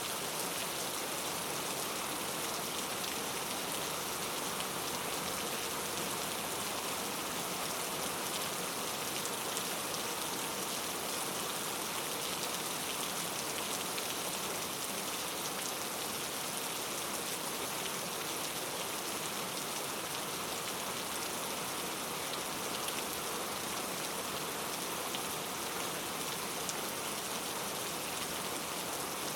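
Steady rain falling on forest foliage, an even hiss with fine scattered drop patter and no change in strength.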